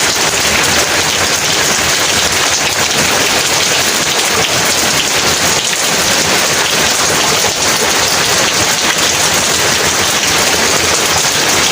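Heavy rain pouring down steadily, a dense even hiss of drops on surfaces with no break or distinct rumble.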